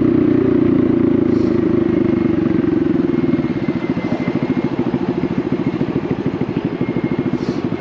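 Honda Navi's small single-cylinder engine through a Vance & Hines aftermarket exhaust, running steadily, then, about three seconds in, easing off to a lower, quieter putter with fast, even exhaust pulses.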